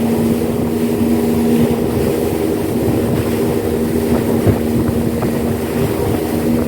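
A 75-horsepower speedboat engine running steadily at speed, a constant hum over the rush of water and wind, with a few brief knocks.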